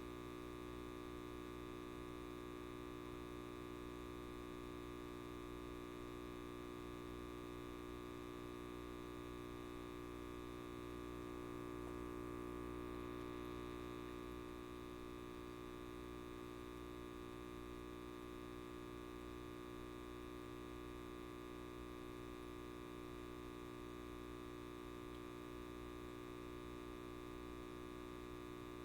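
Light bulb buzzing: a steady electrical hum with many even overtones, swelling slightly about midway.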